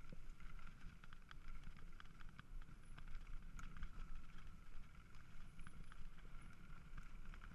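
Faint outdoor location sound: a steady low rumble like wind on the microphone, with scattered light clicks and knocks.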